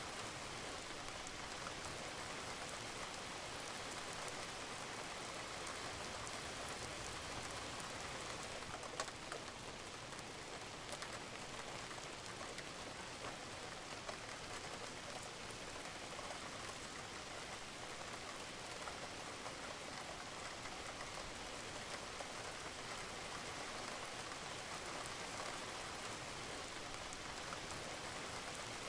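Steady rain falling on a roof, with an occasional louder drop or drip standing out.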